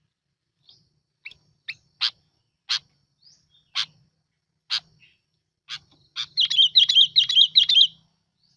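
Sooty-headed bulbul calling: a string of short, sharp single notes, then near the end a quick bubbling phrase of repeated warbled notes, the loudest part.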